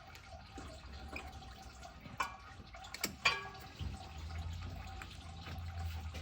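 Liquid trickling and dripping, with a few sharp metallic clinks about two and three seconds in.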